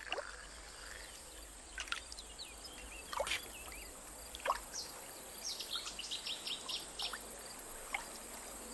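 Quiet wetland ambience with scattered short bird chirps, a few of them sweeping quickly downward, and a busier run of rapid chirps a little past the middle.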